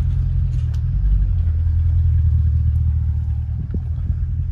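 Bentley Continental's engine idling with a steady low rumble.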